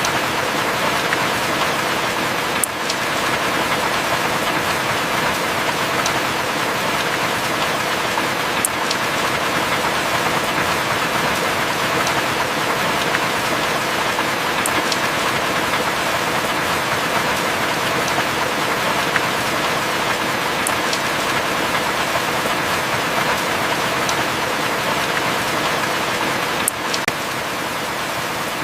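Heavy rain falling steadily as an even, dense hiss. A sharp tick cuts through about every six seconds, and the rain eases slightly near the end.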